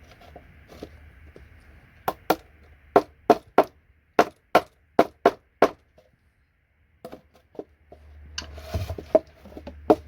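Sharp knocks from a chisel being driven under an IDE connector on a circuit board to lift it off: a quick run of about a dozen strikes, roughly three a second, starting about two seconds in. After a short pause come a few more knocks and a brief scrape.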